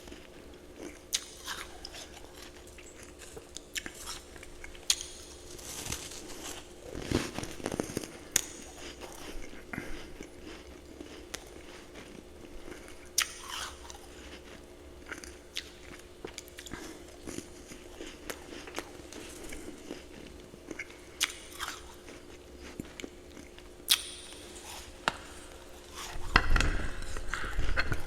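Ice being bitten and chewed close to the microphone: sharp, irregular crunches with short pauses between them, over a faint steady hum. Louder, duller rustling noise comes in near the end.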